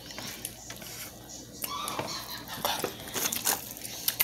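Close-up eating sounds: crunchy fried chicken being chewed, with scattered light clicks and clatter. A faint voice is heard briefly about two seconds in.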